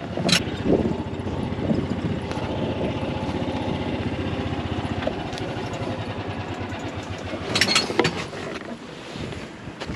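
Golf cart running steadily as it drives along, its engine note even. A sharp knock comes just after the start, and a brief rattle follows near the end.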